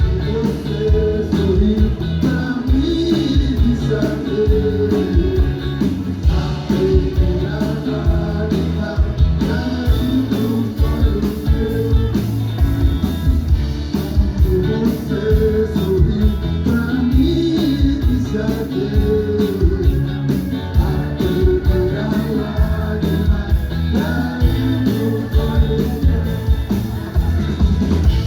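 A live band playing an upbeat rock-style song, with drum kit and electric guitar over a steady beat and a singer's voice carrying the melody.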